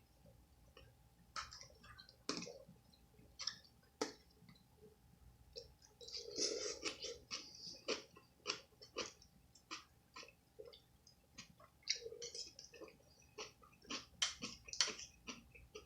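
A person chewing food close to the microphone: a quick, irregular series of wet mouth clicks and smacks.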